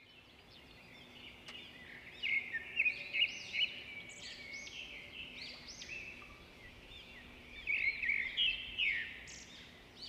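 Small birds chirping and twittering in quick, high, rising-and-falling notes. The calls fade in over the first couple of seconds, with louder flurries about two to four seconds in and again near the end.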